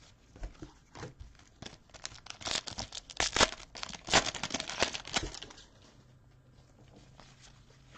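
Foil wrapper of a trading-card pack crinkling and tearing under the hands, with a dense rush of sharp crackles for about three seconds in the middle.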